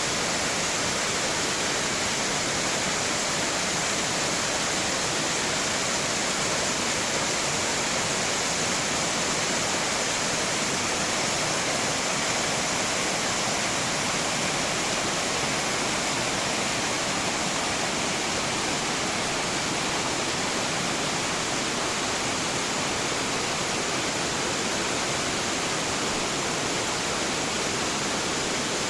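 Waterfall: a steady, even rush of water falling over rocks.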